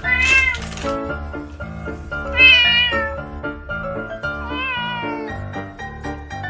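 A domestic cat meowing three times, about two seconds apart, each meow a drawn-out call that bends in pitch, over background music.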